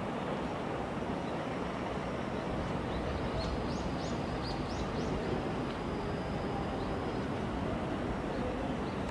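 Steady outdoor background rumble, with a small bird chirping several short, high, rising notes about three to five seconds in.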